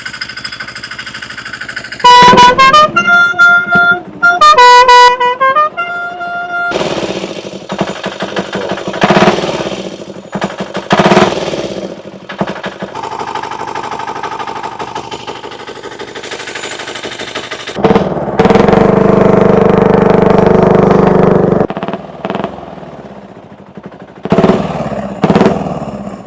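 Vehicle horn sounding a run of short blasts at several different pitches, followed by the turbo diesel chopper's engine running as it rides, with a steadier, louder stretch toward the end.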